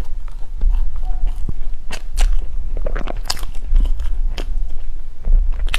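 Close-up chewing and crunching of crusty chocolate bread, a run of irregular crisp crunches and wet mouth sounds, over a steady low hum.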